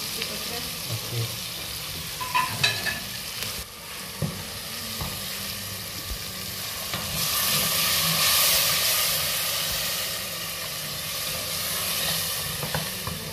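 Onion, tomato and green-chilli masala frying in oil in an aluminium pot: a steady sizzle, with a wooden spatula stirring and knocking against the pot. The sizzle grows louder a little past the middle, then eases.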